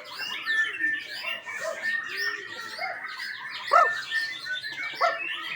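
White-rumped shama (murai batu) singing a fast, varied song of chirps and whistles, with one loud sharp note about two-thirds of the way through.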